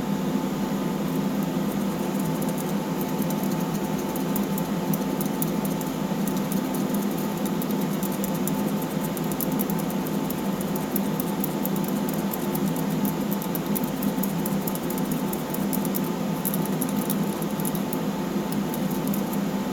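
Steady machine hum, with faint rapid ticking over most of it as thinned model paint is stirred in a small cup.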